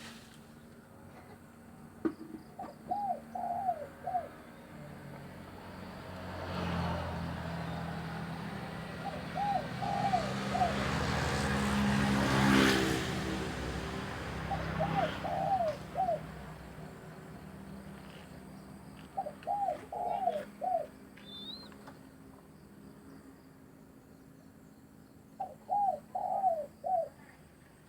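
Dove cooing: five short phrases of three to four notes each, spaced several seconds apart. A passing motor vehicle swells and fades in the middle.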